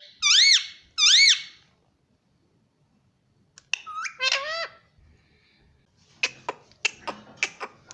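Ringneck parrot vocalising: two loud high-pitched calls that rise and fall in pitch within the first second and a half, a quick cluster of shorter calls about four seconds in, then a run of sharp clicks near the end.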